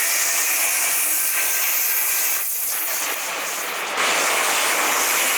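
Several 18-volt and 40-volt cordless angle grinders cutting through thick steel at once: a loud, steady hiss of abrasive cutting discs grinding into metal. It eases slightly around the middle and grows louder again about four seconds in.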